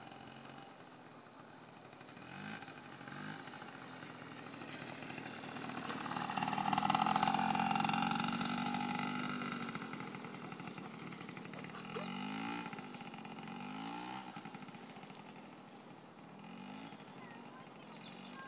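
A child's small motorbike riding around, its engine revving up and down several times. It grows loudest about seven seconds in, as if passing close, then fades.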